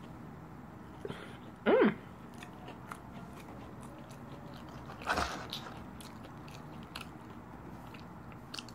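Close mouth sounds of a person chewing fast food with lips closed: faint wet clicks and smacks, with a short hummed "mm" just under two seconds in and a louder mouth sound about five seconds in.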